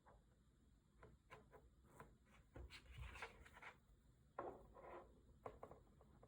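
Pokémon cards and their packaging being handled: faint rustling and rubbing with scattered light taps.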